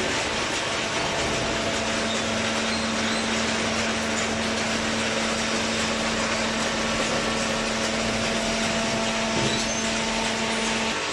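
Hydraulic cardboard baler running: a steady machine noise with a constant hum that comes in about a second in and drops out near the end.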